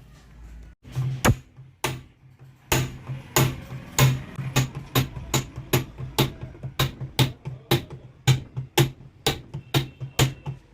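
Repeated sharp knocks, about three a second, over a low steady hum.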